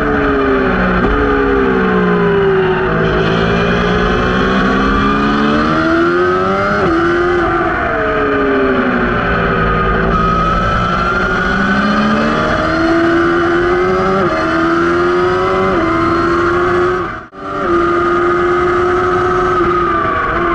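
Motorcycle engine at racing speed, heard from down at the rear axle: the pitch climbs under acceleration with sudden steps at the gear changes and falls away under braking, several times over. The sound drops out briefly for a moment about 17 seconds in.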